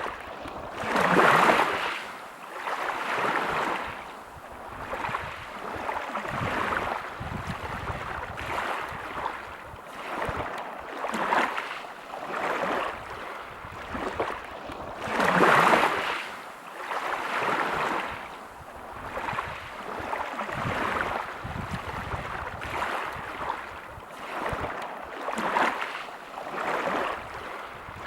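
Waves breaking on a pebble beach, each surge swelling and washing back every few seconds, with two stronger breaks about a second in and around halfway.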